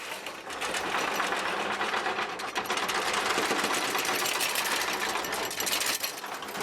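Fast, continuous mechanical rattling and clattering, made of many rapid clicks, starting abruptly.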